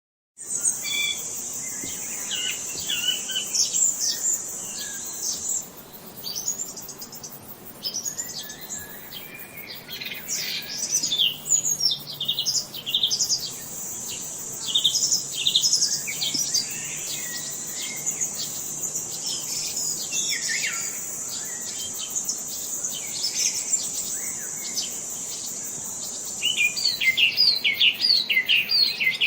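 Several birds chirping and calling, with short trills and whistles, over a steady high-pitched insect buzz that drops out for a while in the middle. Near the end one bird gives a fast run of repeated chirps.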